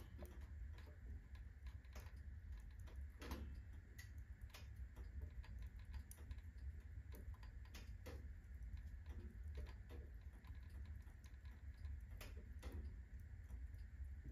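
Firewood burning in a fireplace at full blaze: quiet, irregular crackles and snaps over a steady low rumble.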